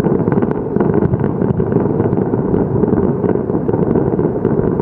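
Distant fireworks: many small pops and crackles over a dense, steady low rumble.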